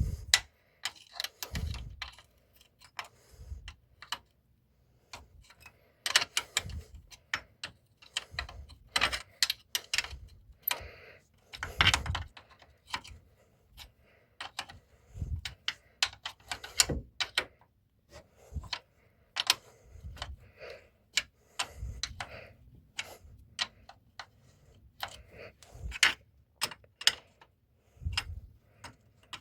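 Irregular metal clicks, clinks and a few louder knocks of hand tools and hardware as nuts are worked onto bolts on the car's new mounts.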